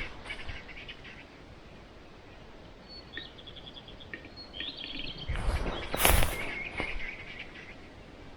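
Birds chirping in short ticking runs in a forest. About five and a half seconds in comes a loud, roughly one-second rustling, crunching burst of noise, the loudest sound here.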